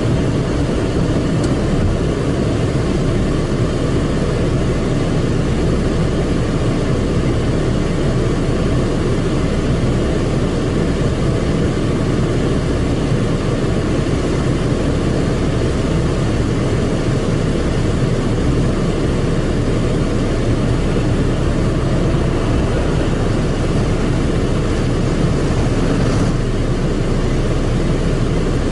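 Automatic car wash machine running, heard from inside the car's cabin: a steady low rumble that holds at one level throughout.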